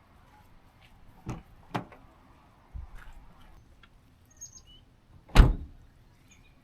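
A few separate knocks and thumps, four in all, the last about five seconds in the loudest, with faint bird chirps in between.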